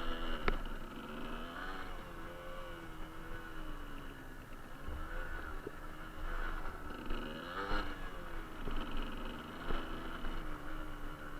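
Suzuki TS125R's two-stroke single-cylinder engine running as the bike is ridden, its pitch rising and falling with the throttle. A sharp click about half a second in.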